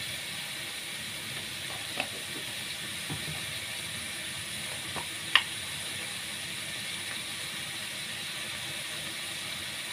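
Bitter melon stir-frying in a pan: a steady sizzle, with a few sharp clicks, the loudest about five seconds in.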